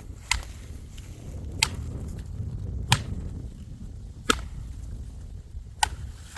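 Dry wood being broken up: five sharp cracks, one about every second and a half, over a steady low rumble.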